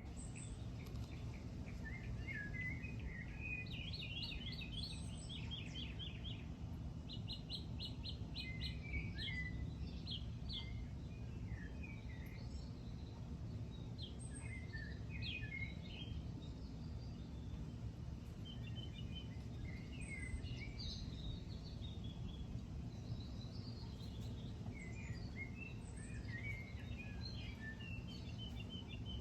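Songbirds singing: a run of varied chirps and quick repeated notes, some in rapid trill-like series, over a steady low background rumble.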